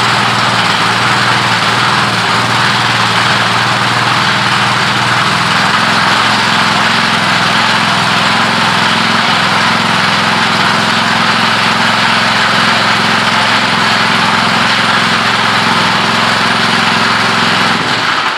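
Small gasoline engine on a pump unit running steadily at idle, just started after sitting unused for a long time.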